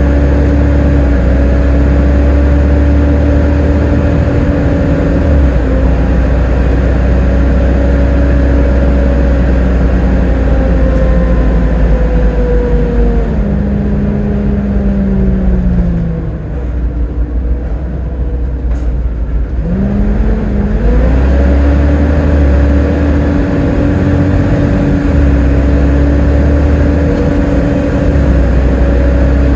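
Volvo B7TL double-decker bus engine and driveline running under way with a steady hoover-like whine over a low rumble. From about twelve seconds in the pitch falls away as the bus slows, it runs quieter for a few seconds, and near twenty seconds it pulls away again with the pitch rising.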